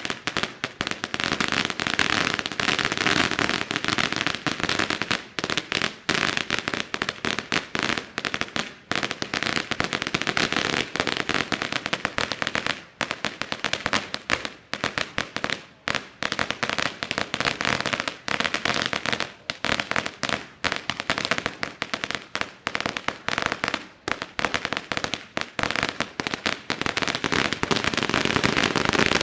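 A long string of firecrackers going off, a dense, rapid, continuous rattle of sharp bangs with a few momentary gaps.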